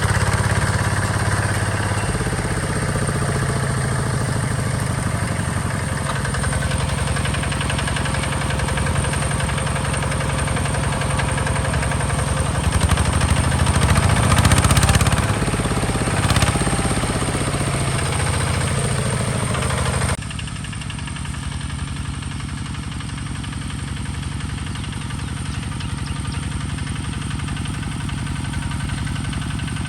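Hinota HG Gold 155 DI tractor's diesel engine running steadily, swelling louder for a few seconds about halfway through. About two-thirds in, the sound cuts abruptly to a quieter engine sound.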